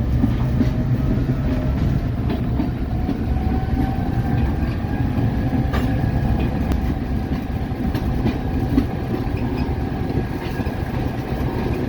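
Railroad ballast car rolling slowly on the track, its steel wheels rumbling steadily with scattered clicks over the rail, and a faint thin whine in the background.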